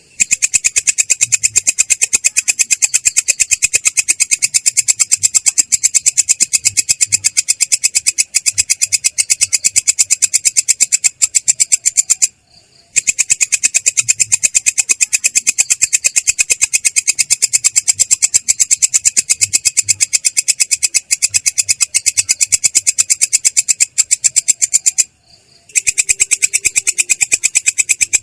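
Belalang kecek katydid (bush cricket) stridulating in a long, rolling trill: a rapid, even train of high, rough clicks. It breaks off briefly twice, about halfway through and near the end.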